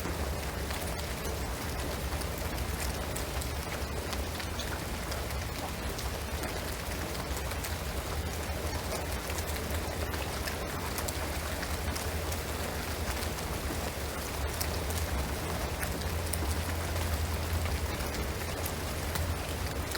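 Steady rain falling on a shingled roof and pine trees, with many single drops ticking through the hiss. A low steady rumble runs underneath.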